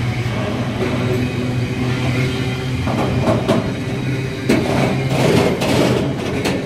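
Container freight train wagons rolling past at speed: a steady rumble of wheels on rail, with knocks and clatter from the wagons from about three seconds in.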